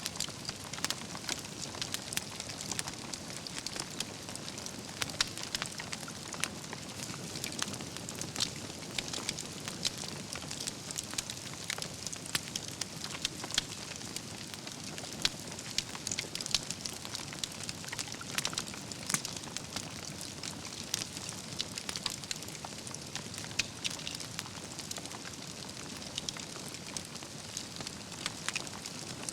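Campfire of burning logs crackling steadily, with frequent sharp pops and snaps scattered irregularly over a soft hiss of flame.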